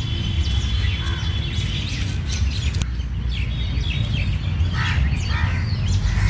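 Birds chirping with many short calls over a steady low rumble of background noise.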